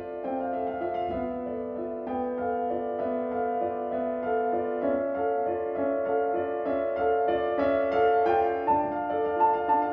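Piano music of slow, held, overlapping notes; near the end a higher note starts repeating in quick pulses.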